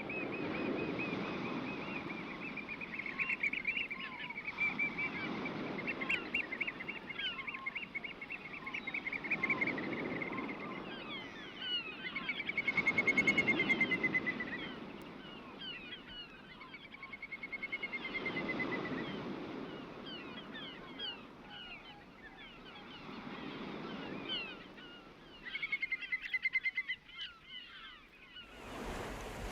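Birds calling in rapid pulsed trills, several falling in pitch, over sea waves washing in and out every few seconds. Just before the end it cuts suddenly to louder, steadier surf.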